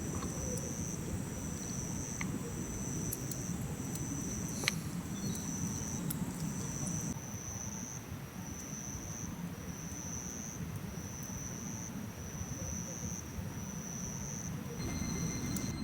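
Insects trilling in regular pulses about once a second, with a second, higher steady insect tone that stops about seven seconds in. A steady low rumble runs underneath, with a few sharp ticks.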